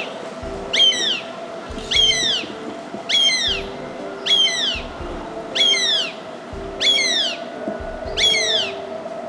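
Juvenile northern goshawk calling: a loud, high call that slides down in pitch, repeated seven times at about one every second and a bit.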